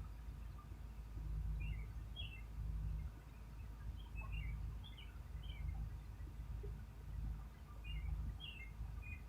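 A bird singing short phrases of a few quick high chirps every second or two, over a louder low, uneven rumble.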